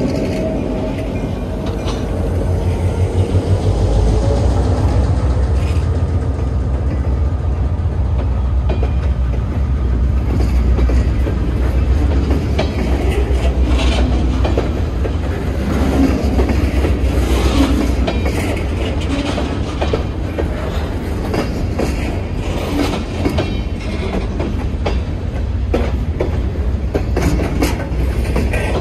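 Slow freight train rolling past close by. The trailing GP9RM diesel locomotive's engine rumbles by in the first couple of seconds, then freight cars follow with a low rumble and irregular clanks and clicks from their wheels over the rail joints.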